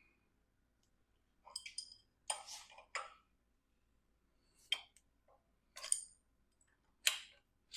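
Metal hand tools clinking against engine parts as a wrench is worked on a nut: a string of short, ringing metallic clicks and clinks at irregular intervals, the loudest at the very end.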